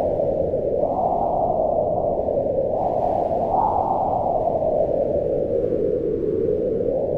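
Strong wind blowing in slow gusts, a deep steady rush whose pitch swells and falls over a few seconds.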